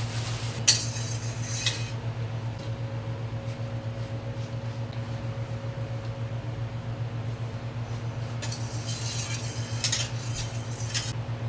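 A cooking utensil clinking and scraping against a pot, briefly near the start and again for a few seconds near the end, over a steady low hum.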